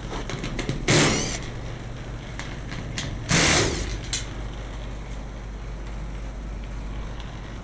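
Rooftop A/C unit running with a steady low hum. Two short loud noisy bursts, about a second in and again near the middle, with a few sharp clicks between them.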